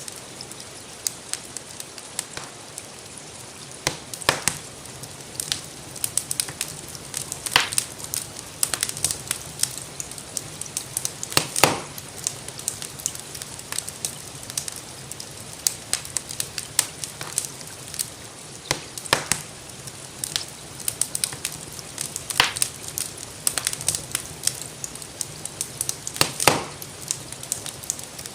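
Wood fire crackling steadily, with many small clicks and a louder sharp pop every few seconds, over a steady hiss of rainfall.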